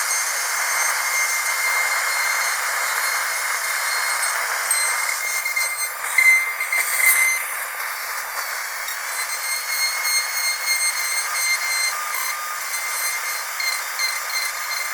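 High-speed dental drill running steadily: a thin, high-pitched whine over a hiss, with a brief change and a sharper squeal about six to seven seconds in.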